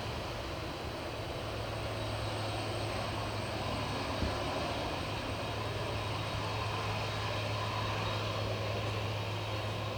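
Aircraft engines running at a distance: a steady rumble and hiss with a low hum, swelling slightly toward the end.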